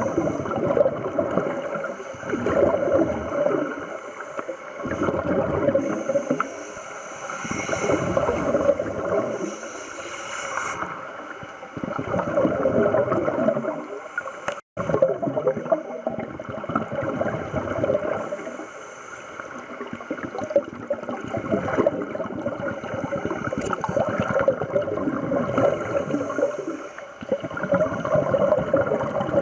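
Scuba divers breathing through regulators underwater: repeated gurgling rushes of exhaled bubbles, swelling and fading every few seconds.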